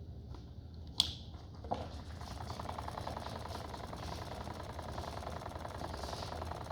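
A sharp click about a second in and a smaller knock, then from about two seconds a steady, finely pulsing buzzing whirr. This is a salvaged LG direct-drive washing-machine motor, fed through a variac, starting up and running a toy washing machine a little slow.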